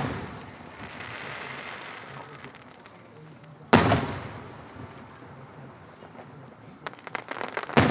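Fireworks shells bursting in the air. Each boom fades into a long rumble: the tail of one at the start, a loud boom about four seconds in, then a quick spatter of crackles and another boom near the end. Crickets chirp steadily in the background.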